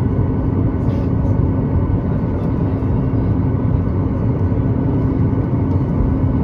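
Steady airliner cabin noise inside a Boeing 737-9 MAX on the ground after landing: a low rumble with a steady hum, and a couple of faint clicks about a second in.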